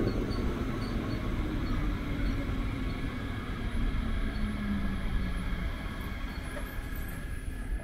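Train moving through a railway station: a steady low rumble, with a faint tone that slowly falls in pitch through the middle.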